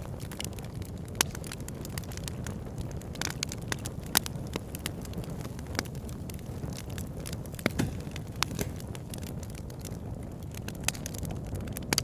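Fire burning in a fireplace: a steady low rush of flames with irregular crackles and pops, a few louder snaps among them.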